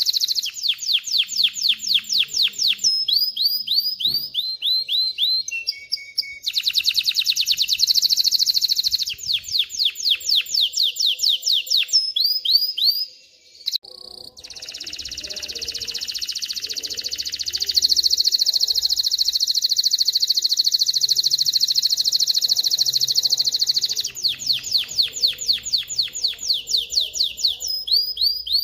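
Male domestic canary singing: fast runs of repeated high notes and quick sweeping syllables, a short break about halfway, then a long unbroken rolling trill lasting around ten seconds, followed by more rapid repeated notes.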